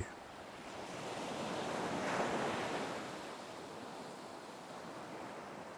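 Ocean waves washing onto a shore: one wave swells up about two seconds in and recedes into a steady hiss of surf.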